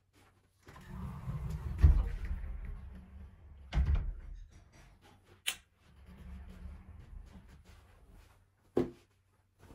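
Household handling sounds: low rustling and shuffling with several knocks and one sharp click, like cupboard doors or objects being moved about.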